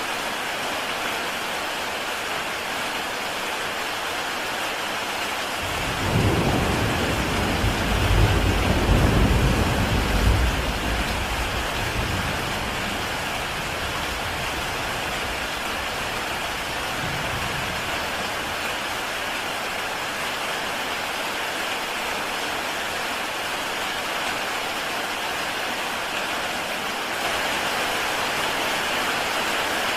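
Heavy rain falling steadily on a tile roof. About six seconds in, a low roll of thunder rumbles in, loudest a few seconds later, then fades away over the next several seconds.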